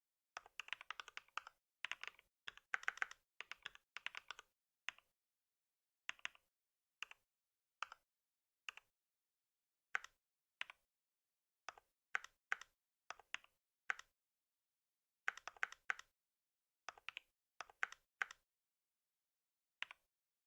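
Computer keyboard typing in irregular bursts. A fast run of keystrokes comes at the start, then single clicks and short runs with silent gaps, and another quick flurry a little over halfway through.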